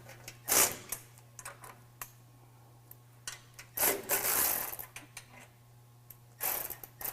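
Bolts on truck bumper mounting brackets being snugged up with a tool: three short bursts of tool noise with scattered metallic clicks between them.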